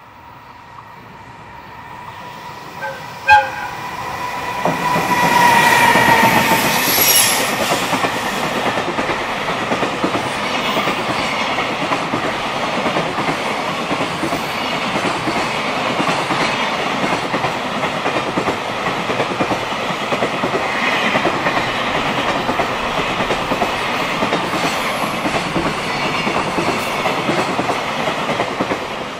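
An EF210 electric freight locomotive sounds its horn as it approaches. There is a sharp toot about three seconds in, and the horn tone drops in pitch as the locomotive passes, around six seconds in. After that a long train of container wagons runs steadily past, its wheels clattering on the rails.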